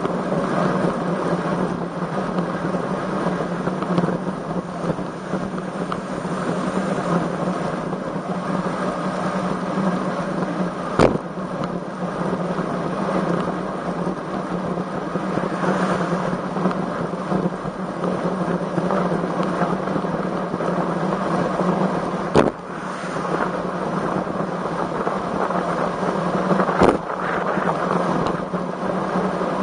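Strong wind buffeting the microphone of a camera on a moving road bike, a steady loud rush with tyre and road noise under it. Three sharp knocks cut through it, about 11, 22 and 27 seconds in.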